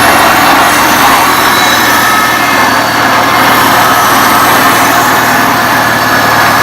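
1975 International Harvester Farmall Cub's four-cylinder flathead engine running steadily as the tractor is driven in reverse gear.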